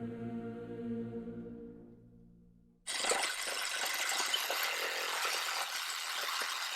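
Background music fades out, then about three seconds in a Sawzall reciprocating saw starts abruptly and runs steadily, cutting through a piece of wood.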